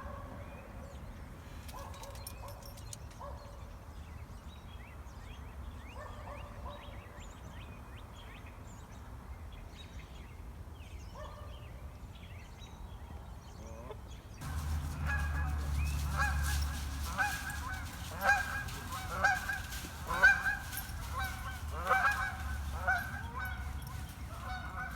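Geese honking: a few faint calls in the first half, then from about halfway a flock calling over and over, louder and closer, with a low rumble underneath.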